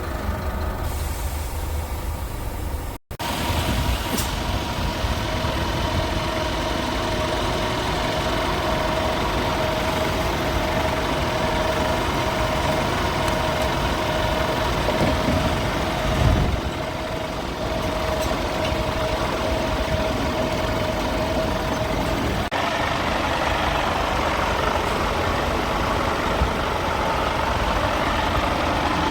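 Scania P320 truck's five-cylinder diesel engine idling steadily.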